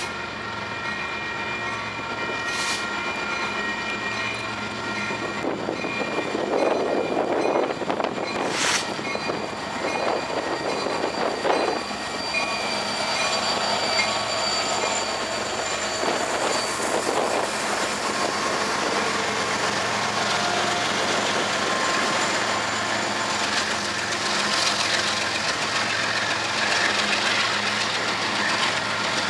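A train running past with a steady rush of wheels on rail, two sharp clicks about three and nine seconds in.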